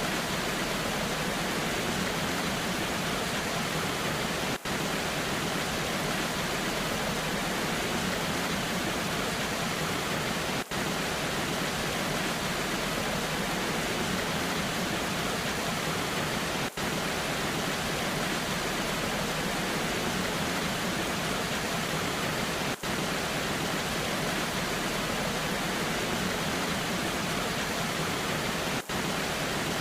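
Waterfall rushing in the rain: a steady, even hiss of falling water, with a very short dip in level about every six seconds.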